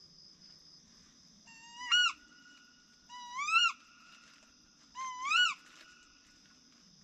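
A bird calls three times, about a second and a half apart. Each call is a held whistle-like note that sweeps sharply upward and drops off at the end.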